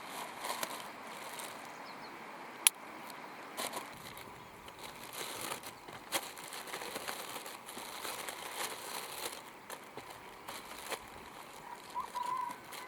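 Hoe chopping and scraping into dry soil and vegetation while planting ginger, with crackling and rustling between irregular knocks, one sharp loud click about three seconds in.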